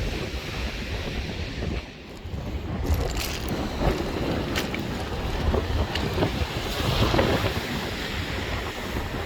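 Surf on a slightly stormy sea breaking on the shore, under wind buffeting the microphone with a low rumble. The noise drops briefly about two seconds in and swells again around seven seconds in.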